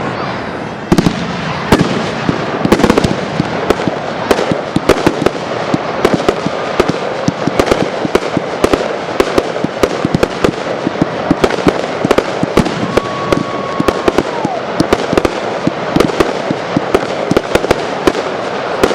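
Fireworks display: a dense, continuous barrage of bangs and crackling reports, many a second, with no break.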